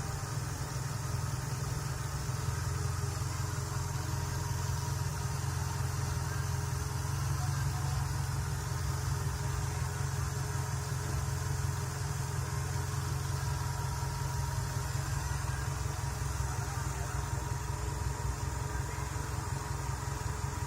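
Volkswagen engine running steadily at idle on test, with a low, even hum and no revving.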